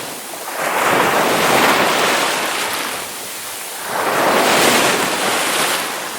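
Ocean waves breaking on a shore, two surges of surf washing in about half a second and four seconds in, each swelling and then easing back.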